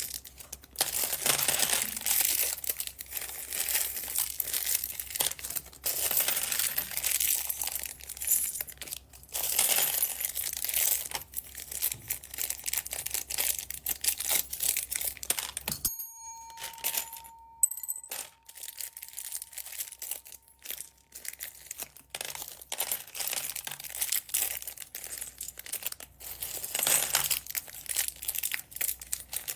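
Plastic packets of beads being handled, crinkling with small hard clicks and rattles of the beads inside. About halfway through, the handling stops briefly and a short thin ringing tone sounds before the crinkling resumes.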